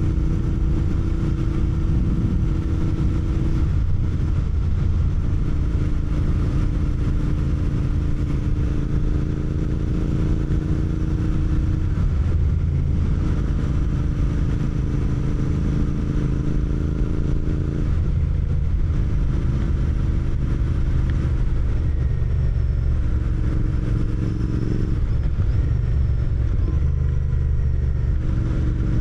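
Royal Enfield GT 650's parallel-twin engine running as the motorcycle is ridden, under a steady low rumble of wind and road noise. The engine note changes pitch several times.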